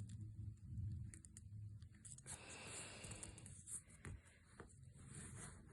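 Faint rustling and creasing of origami paper being folded by hand, with a few soft clicks, over a low background hum.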